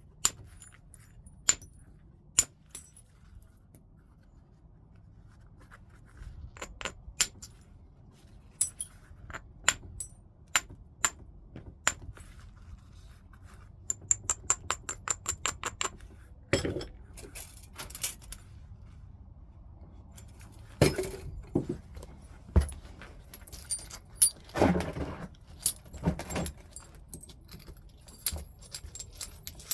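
Heat-treated Burlington chert being flintknapped: sharp, glassy ticks of strikes on the stone, a quick run of small ticks about halfway through, and several rougher scraping sounds later on.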